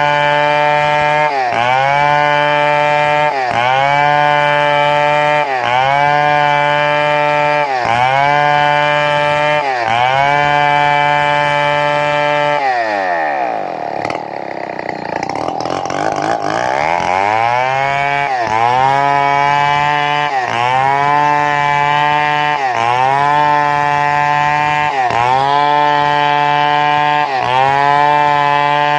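Two-stroke chainsaw engine running at high revs while cutting wood, its pitch sagging briefly under load and recovering about every two seconds. About halfway through it bogs down deeply for a few seconds, then revs back up and carries on cutting.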